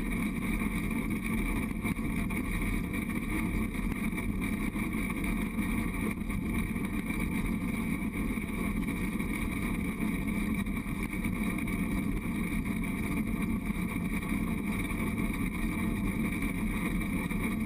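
Steady rumble of a Durango & Silverton narrow-gauge train car running along the track, mixed with wind on the microphone, even and unbroken throughout.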